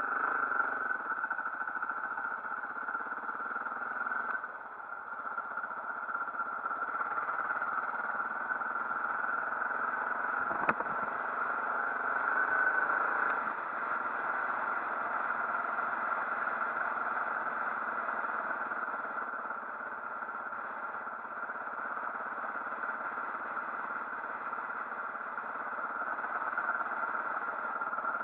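Motorcycle riding along, its engine and road noise running steadily, with a single sharp click about ten seconds in.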